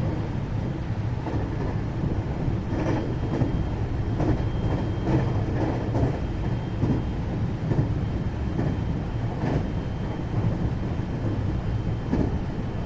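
Interior running sound of a 521 series electric multiple unit, recorded in the motor car KuMoHa 521-30: a steady low rumble of the wheels on the rails, with irregular knocks about once a second and a faint steady high tone.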